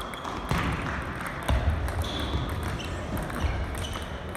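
Hall ambience of table tennis matches in play: many scattered, sharp clicks of ping-pong balls hitting tables and paddles over a steady hall rumble.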